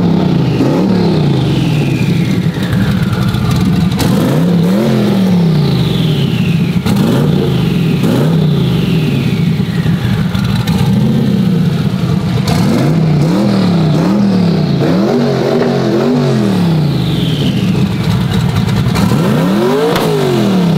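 Twin-turbo 1969 Camaro engine revved in repeated short throttle blips, its pitch rising and dropping each time, with a high falling whistle after each blip.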